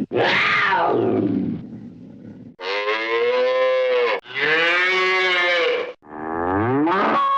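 Stock cartoon sound effects: a sweep falling in pitch, then three long, pitched, animal-like calls, the last starting with an upward glide.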